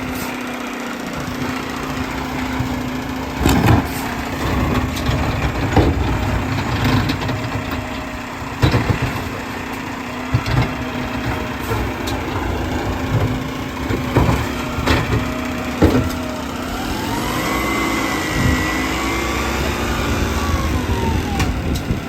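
Garbage truck engine running steadily, broken by several loud clanks and bangs. Near the end a whine rises and falls for a few seconds.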